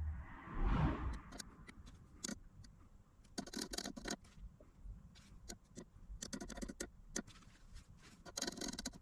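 Irregular small clicks and taps, some in quick clusters, from buttons on a battery charger's setting panel being pressed to adjust its charging voltage. A short rustling scrape comes about a second in.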